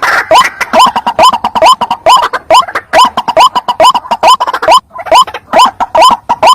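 White-breasted waterhen (ruak-ruak) lure call: a fast, steady run of harsh rising 'kruak' notes, about three or four a second, with overlapping calls.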